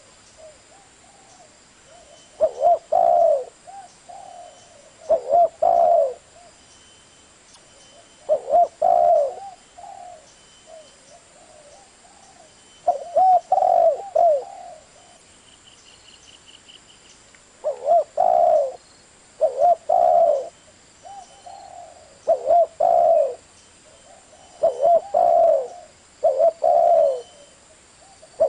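Spotted dove cooing: short phrases of a few low coos each, repeated about nine times with pauses of two to four seconds between them.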